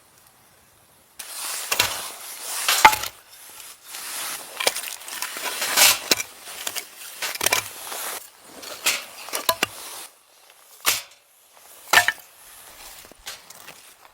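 Irregular rustling and crinkling handling noise with scattered clicks and knocks, starting about a second in.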